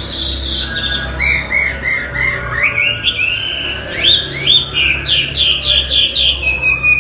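Chinese hwamei singing: quick runs of repeated, arched whistled notes, about three or four a second, with a short held whistle near the end. A steady low hum runs underneath.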